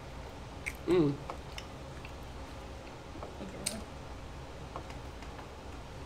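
A man chewing a bite of soft glazed donut, with faint wet mouth clicks here and there and one sharper click a little past halfway. About a second in he gives a short hummed "mm".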